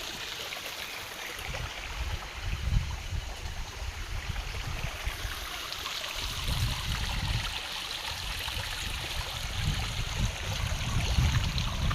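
Running water with a steady rushing hiss, with irregular low rumbling gusts underneath.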